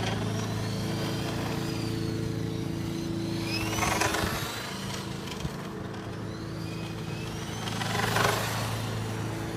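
Small brushed can motor of a 1/18-scale LaTrax Super Short Course RC truck being driven, its high whine rising and falling in pitch with the throttle. There are two louder rushing surges, about four and eight seconds in, over a steady low hum.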